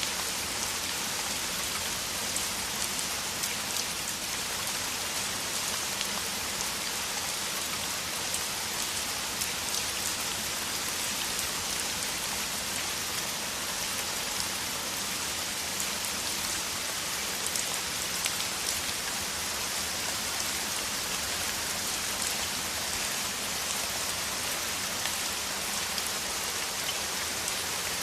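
Steady heavy rain: a dense hiss of drops with many fine individual splats on surfaces.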